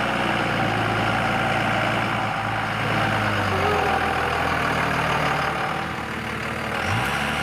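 Dodge pickup's diesel engine running under a truck camper while driving on a trail. Its pitch drops about halfway through and rises quickly near the end.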